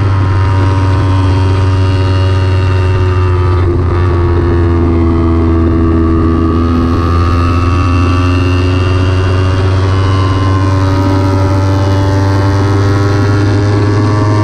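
Kawasaki Ninja 300 parallel-twin engine running hard at speed on track, its note sweeping gently up and down, with a brief break about four seconds in. Heavy low wind rumble on the bike-mounted microphone.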